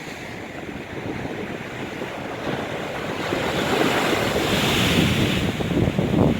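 Storm waves breaking on the shore, the surge building about halfway through to a loud hiss of wash, with strong wind buffeting the microphone.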